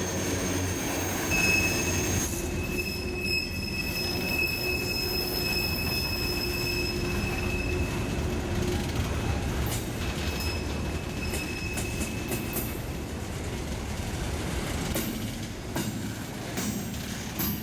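Train rolling past with a steady low rumble, its wheels squealing in thin high steady tones that come and go twice. A few sharp clicks near the end.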